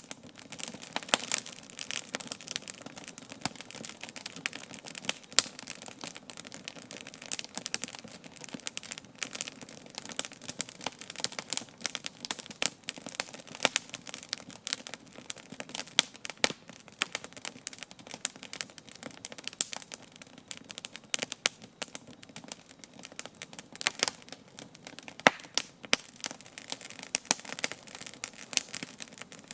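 Campfire burning, its wood crackling and popping in irregular sharp snaps over a steady hiss.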